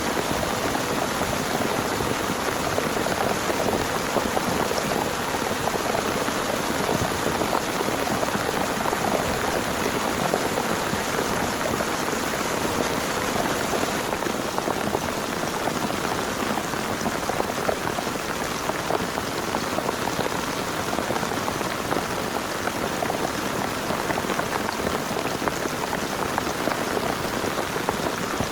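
Heavy rain falling steadily, a dense even hiss of many drops hitting a surface.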